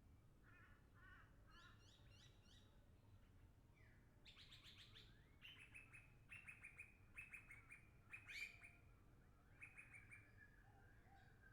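Wild birds calling: quick runs of short, high chirps repeated in bursts, busier in the second half, over a faint steady low background hum.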